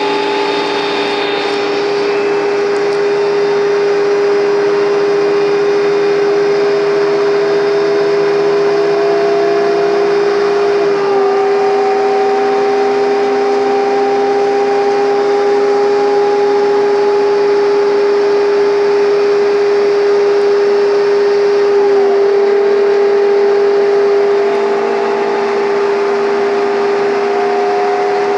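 Scania N230UD double-decker bus pulling hard uphill, its five-cylinder diesel thrashing under a steady high whine, the 'hoover' sound typical of these buses. The engine note climbs slowly and drops back twice, about eleven and twenty-two seconds in, as the gearbox changes up.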